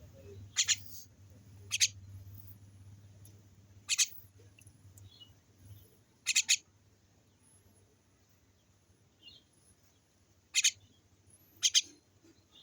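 A small bird giving short, sharp chirps, single or in quick pairs, one to several seconds apart, over a faint low hum that fades out about halfway through.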